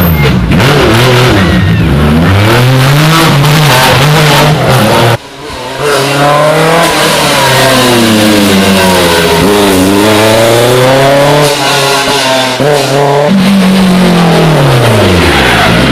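Historic rally car engines at hard throttle, pitch climbing and falling as the drivers shift gears and lift for corners. The sound breaks off briefly about five seconds in, then another run of revving follows.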